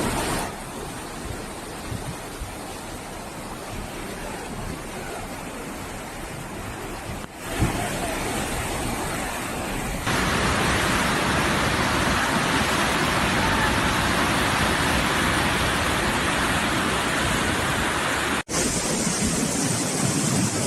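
Steady rushing noise of wind or water, changing abruptly in level and tone three times and getting louder and brighter for the second half.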